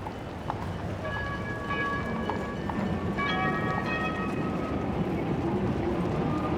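Rail vehicle running with a steady low rumble, and high metallic squealing tones over it from about one to four seconds in, typical of wheels squealing on rails.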